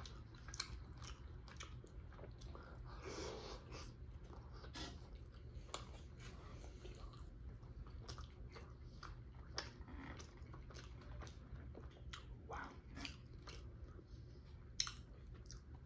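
A person chewing a mouthful of soft chicken and naan bread, with many small wet mouth clicks and smacks.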